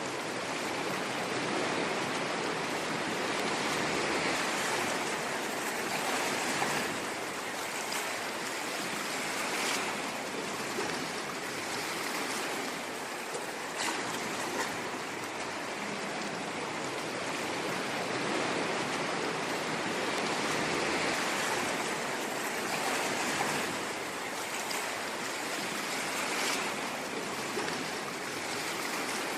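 Ocean waves washing onto a shore, a continuous rushing surf noise that swells and eases gently every few seconds.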